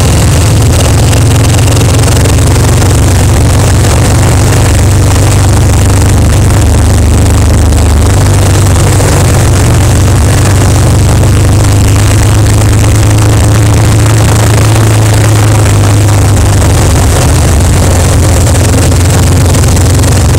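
Kawasaki Vulcan 1500's V-twin engine running steadily while the motorcycle cruises, with a steady rush of noise over it.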